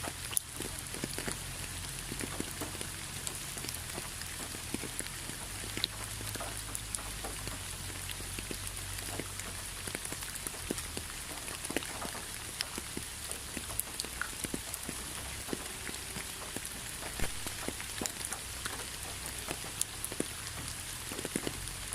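Rain falling steadily, with an even hiss and many separate drops ticking irregularly on a hard surface, under a steady low hum.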